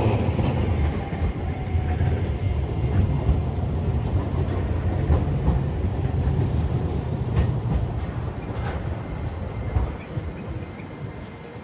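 Hiroshima Electric Railway streetcar running on its rails: a low rumble with scattered wheel clicks, fading about ten seconds in.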